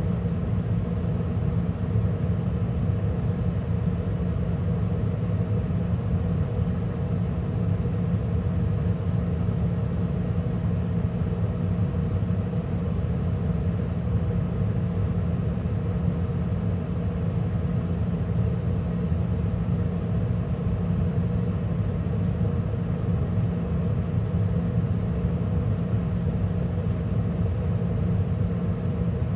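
2013 Carrier gas furnace running steadily mid-cycle, with burners lit and the draft inducer and circulating blower motors humming at a constant pitch.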